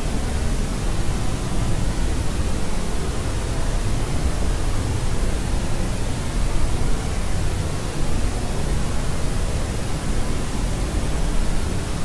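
Sleep-aid white noise: a steady, even hiss across the whole range, heavier in the low end, unchanging throughout.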